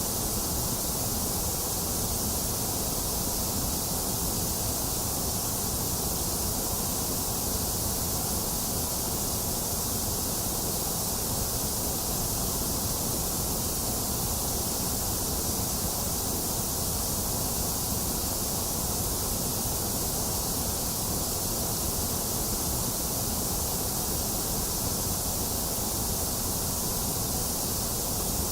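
Continuous white noise, a steady unbroken hiss with no changes, strongest in the treble.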